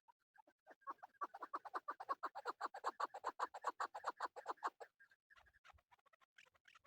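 Male chukar partridge calling: a fast run of short chuk notes, about eight a second, that builds in loudness for about four seconds. Fainter scattered notes follow.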